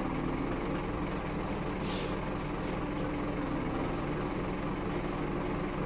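Scania K230UB bus's five-cylinder diesel engine running steadily, with a short hiss of air about two seconds in.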